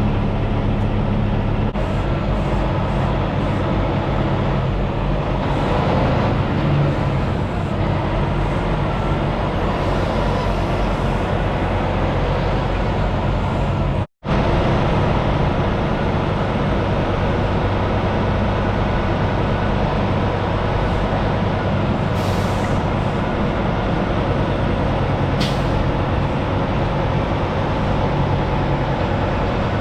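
Peterbilt 579 semi truck's diesel engine running steadily, with two short hisses of air about 22 and 25 seconds in. The sound cuts out for an instant about halfway through.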